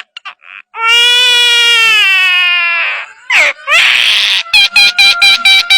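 A bird calling loudly: one long wailing cry that falls slightly in pitch, then a harsh squawk, then a quick run of short sharp calls.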